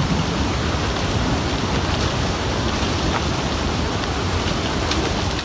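River floodwater rushing steadily after an ice dam break, a dense even wash of water noise with a few faint knocks.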